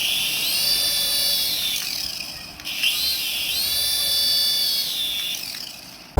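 A small electric toy motor whining up to speed, holding a high steady pitch for about two seconds and winding down, twice.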